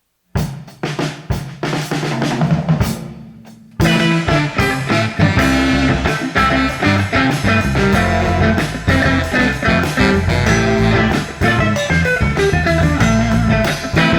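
Instrumental band music from saxophone, electric bass, drums and guitar. It opens with a run of drum hits over a held bass note. About four seconds in, the full band comes in with a steady groove.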